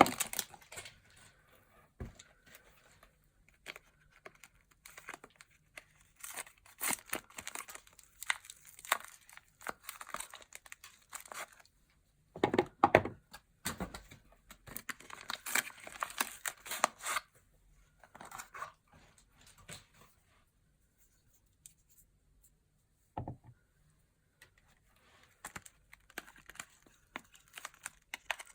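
Soap wrappers being torn open and crinkled by hand in irregular bursts, with a short quiet pause about two-thirds through and a single sharp knock soon after it.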